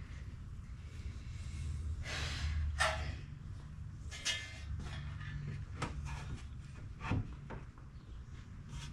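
Handling noises: two longer rustles and a few light knocks and clicks, over a low steady hum.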